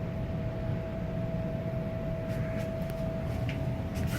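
Steady low mechanical hum of running basement HVAC equipment, with a constant whine over it and a few faint light clicks in the second half.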